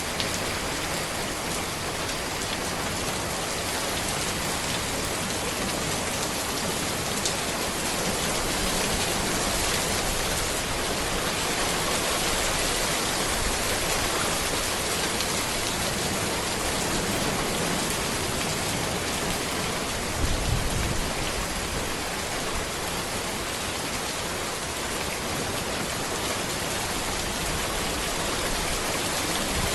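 Steady rain falling on a road, a dense, even hiss of drops. A brief low thud comes about two-thirds of the way through.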